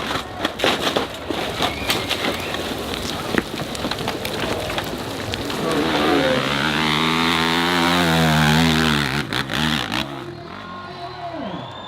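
Dirt bike engine running hard on a hill climb, crackling at first and then revving to a loud steady high note for a few seconds before the revs drop away near the end.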